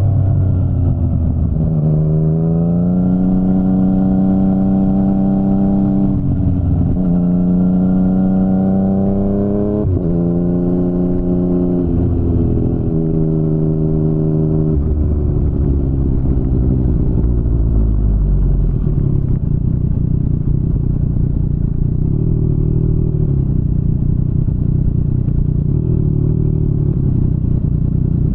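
2019 Yamaha MT-09's three-cylinder engine through an Akrapovic full-system exhaust, revving up and holding in several stretches, each broken by a short gap like a gear change. About halfway through it drops to low revs and runs on steadily.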